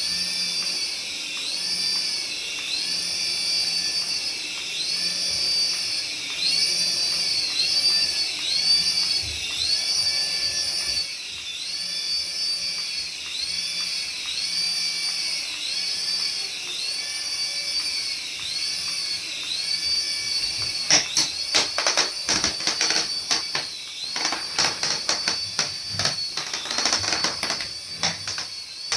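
Small electric motor of a remote-control toy whining at a high pitch, revving up and down about once a second. About twenty seconds in it changes to a rapid rattle of clicks over the continuing whine.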